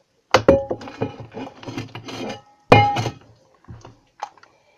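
A hard container or bowl knocking and clinking against a table, with short ringing tones. There are two loud clinks, one just after the start and one at about three seconds, with lighter knocks and rustling between.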